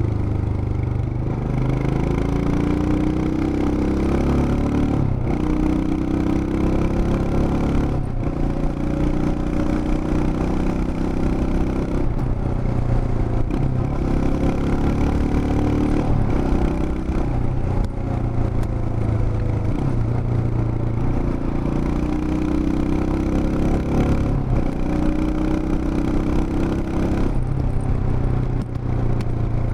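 Royal Enfield Himalayan BS6's 411 cc single-cylinder engine and exhaust on the move. The pitch climbs under throttle and drops back every few seconds as the bike accelerates and changes gear.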